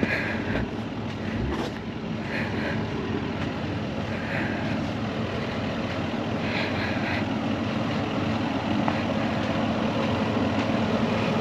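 Four-wheel-drive vehicle engine running steadily, slowly getting louder, while vehicles line up for a snatch-strap recovery of a bogged truck and caravan.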